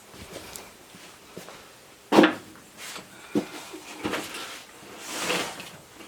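A few separate knocks and clunks, the loudest about two seconds in, followed by a short rustling or scraping swell near the end.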